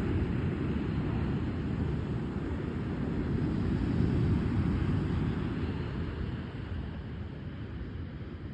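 Wind buffeting the microphone on a beach, a steady low rumble that swells about four seconds in and eases toward the end, with surf washing behind it.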